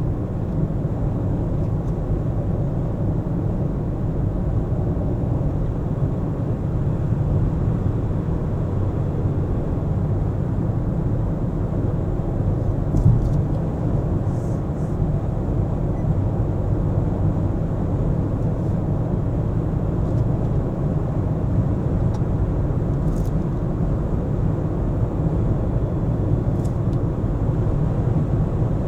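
A car driving in city traffic: a steady low rumble of road and engine noise, with a few faint clicks partway through.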